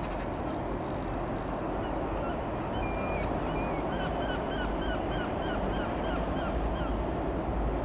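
Steady rushing noise with a low rumble. From about two seconds in, a bird calls in a rapid series of short, repeated chirps, about three a second, which stop near the end.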